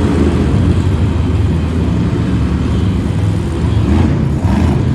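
Monster truck engine running loudly with a deep, continuous drone.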